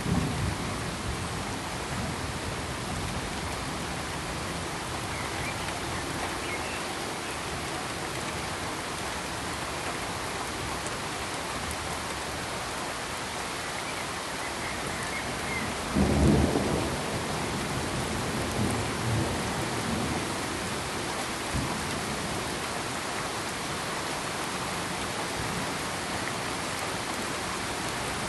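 Steady, even hiss of a sleep-noise track, with a low rumble that swells about two-thirds of the way in and two fainter rumbles soon after.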